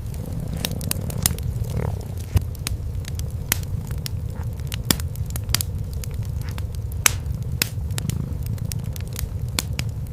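Cat purring, a steady low rumble, under a wood fire crackling with frequent sharp pops.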